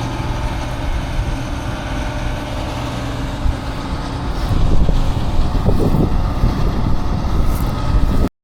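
Combine harvester engine running steadily, with wind on the microphone; the sound cuts off suddenly near the end.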